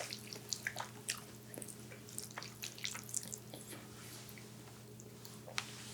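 Close-up wet chewing: soft moist smacking clicks of a mouth eating, frequent at first and thinning out in the second half, over a steady low hum.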